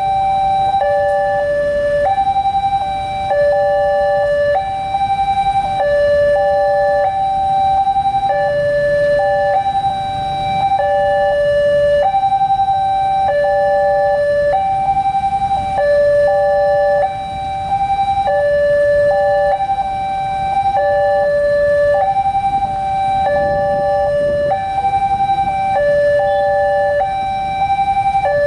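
Railway level crossing's electronic warning alarm sounding continuously, switching between a high and a low tone in a repeating pattern, over a low rumble of traffic.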